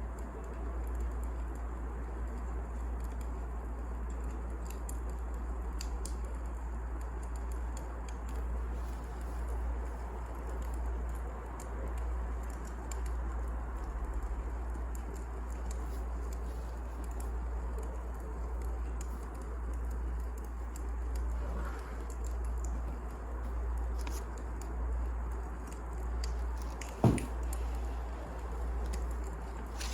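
Wood fire crackling steadily over a low rumble, with faint scattered crackles and one sharp, loud pop about 27 seconds in.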